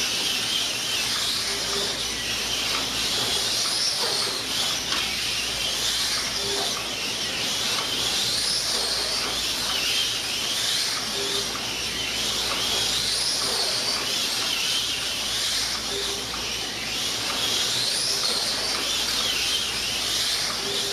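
1/24 scale slot cars' small electric motors whining around the track, the high pitch rising and falling over and over as the cars speed up on the straights and slow for the corners. A short low tone repeats about every two seconds.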